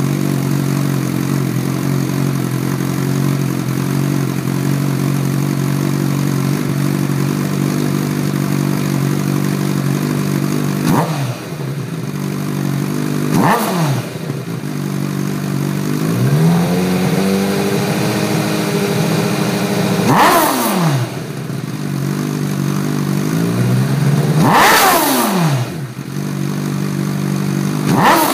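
2008 Honda CBR1000RR's inline-four engine breathing through a Jardine GP1-R aftermarket exhaust: it idles steadily for about ten seconds, then is revved in a series of quick throttle blips, one held at higher revs for a few seconds before dropping back to idle.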